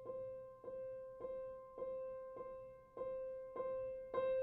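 Background piano music: a single note struck over and over, a little under twice a second, each one fading before the next. More notes join near the end.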